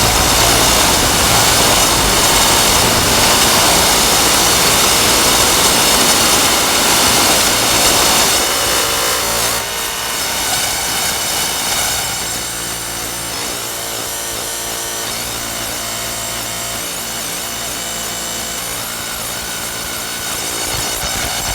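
Harsh, distorted electronic noise drone from a modular synthesizer patch run through fuzz and filter pedals. A dense wall of noise thins out about nine to twelve seconds in, becoming a quieter layered drone of many steady held tones.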